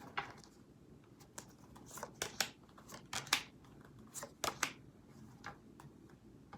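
Tarot cards being handled on a table: a string of light, irregular card flicks and taps, about a dozen over several seconds.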